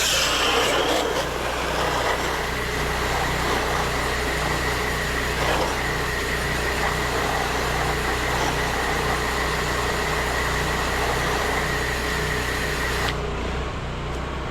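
Small gas engine of a pressure-washing rig running steadily, under a broad spray hiss that cuts off suddenly near the end.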